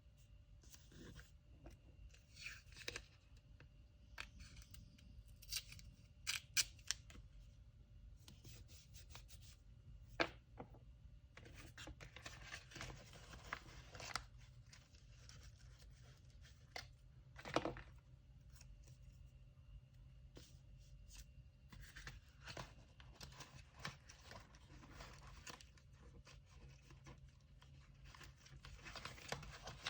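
Hand packing of orders: scissors snipping and paper or tape tearing, with scattered small clicks and rustles. The sound is faint and intermittent, with a few sharper ticks.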